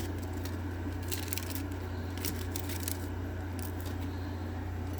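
A steady low hum with scattered clicks, rustles and crackles of handling noise.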